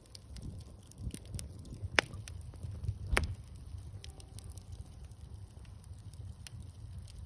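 Wood bonfire crackling: scattered small ticks and two loud sharp pops about two and three seconds in, over a steady low rumble.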